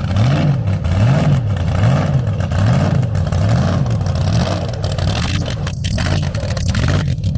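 A car engine revving up and down in a steady rhythm, its pitch rising and falling a little more than once a second.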